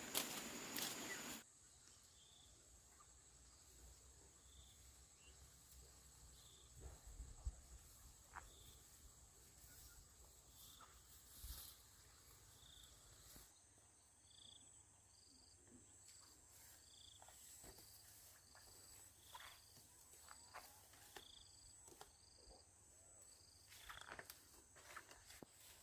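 Faint outdoor ambience with a small animal's short, high chirp repeating about every second and a half. About halfway through, a second, higher chirp joins and alternates with it, over a thin, steady high whine.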